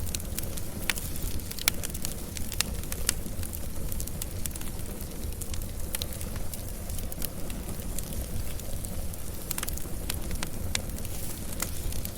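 Wood fire burning steadily with a low rumble, crackling and popping in sharp, irregular snaps.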